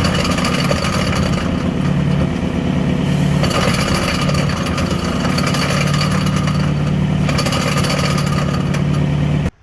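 Honda H23A 2.3-litre four-cylinder engine running at a steady speed through its newly welded exhaust, a constant, even drone that cuts off abruptly near the end.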